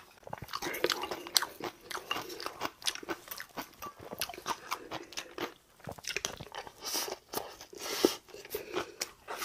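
A man chewing and crunching food close to the microphone, with a quick, irregular run of wet clicks and smacks.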